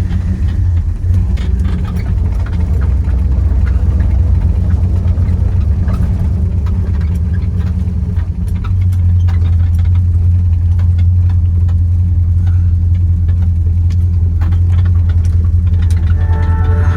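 The 350 V8 of a 1971 Chevrolet El Camino Super Sport running on the drive, a steady low drone that grows louder about nine seconds in, with a few light clicks. Music comes in near the end.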